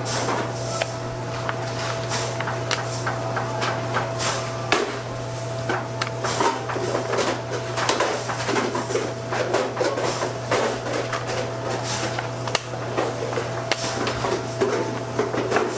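Irregular knocks and clatter of bakery work, over a steady low machine hum.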